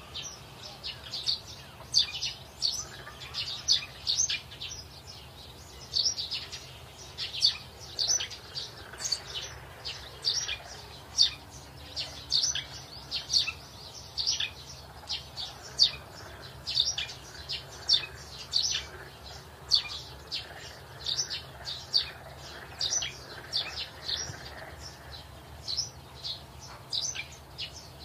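Birds chirping: a steady stream of short, high chirps, several every second, over a faint low background hum.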